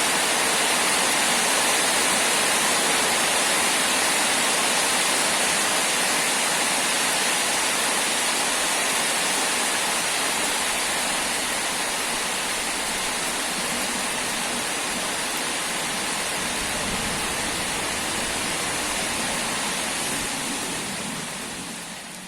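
Heavy rain falling steadily as a dense, even hiss, fading out near the end.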